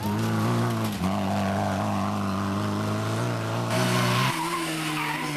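Rally car engine running hard at high, fairly steady revs, with tyres skidding. There is a brief break about a second in, and the revs drop about four seconds in as the driver lifts off.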